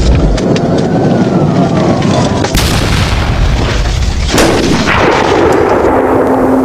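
Patrol car at high speed, heard from inside on its dash camera: a heavy rush of wind and engine, with a siren tone sweeping up and then down. Two hard crash impacts come about two and a half and four seconds in, as the speeding police car strikes a motorcyclist.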